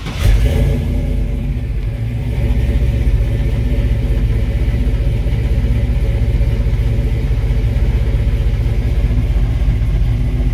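GM crate LS3 6.2-litre V8 with a Flowmaster exhaust and X-pipe starting up: it fires right at the start and settles into a steady idle at about 900 rpm.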